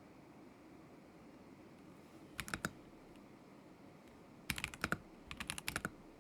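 Keystrokes on a Kzzi K75 Pro mechanical keyboard with Moment linear switches. After a pause, a brief cluster of keystrokes comes about two and a half seconds in, then a quicker run of typing from about four and a half seconds on.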